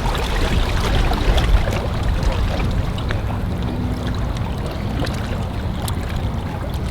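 Wind buffeting the microphone outdoors: a steady, gusting low rumble with a rushing hiss over it.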